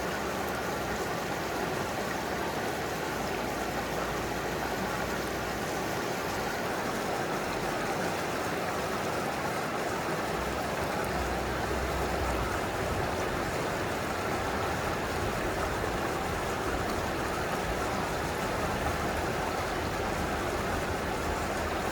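Mountain stream flowing, heard up close: a steady, even rush of water.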